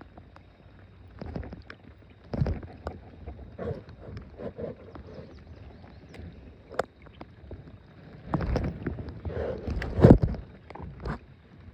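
Irregular knocks and low thumps of people shifting and handling gear in a small boat on the water, loudest about ten seconds in.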